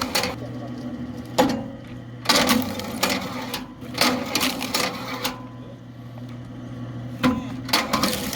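Belt-driven mechanical log splitter (KM Grand SF-10, 1500 W electric motor) running with a steady hum. It is interrupted several times by loud cracks and clatter as oak rounds are split.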